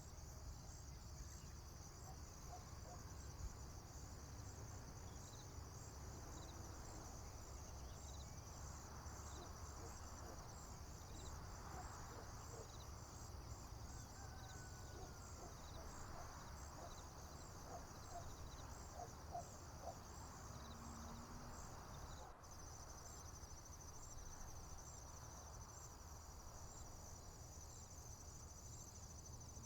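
Field crickets chirping in a faint, steady, high-pitched pulsing chorus over a low background rumble, with a few faint bird notes in the middle. About two-thirds of the way through, the chirping switches abruptly to a faster, even trill.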